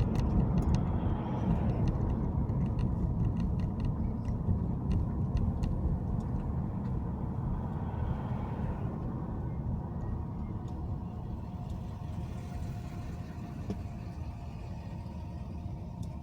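Car driving on a city street: steady low road and engine rumble that slowly gets quieter, with scattered light clicks or rattles in the first few seconds.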